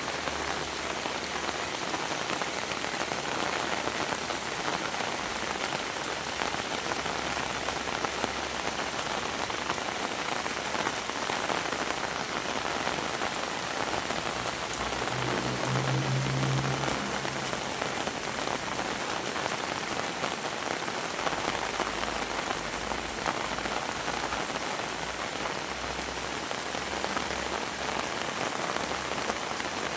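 Heavy rain falling steadily, with a low droning hum that swells for a couple of seconds about halfway through.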